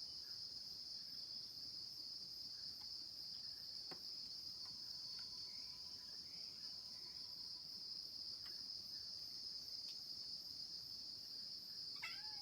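A steady, unbroken high-pitched chorus of insects shrilling, with a few faint short bird chirps now and then.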